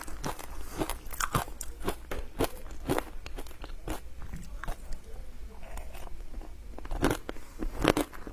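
Close-miked crunching and chewing of ice coated in matcha powder: a run of sharp crackling bites, thinning out in the middle and picking up again near the end.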